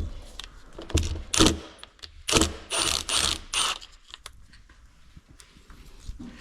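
A hand ratchet wrench clicking in several short runs during the first four seconds, then only faint small clicks: the tool is working fasteners off the engine.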